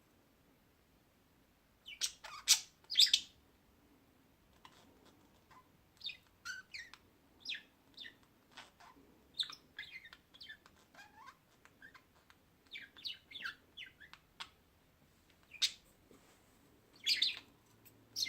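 Small birds chirping: short, high chirps in quick, irregular runs, loudest in a cluster a couple of seconds in and again near the end.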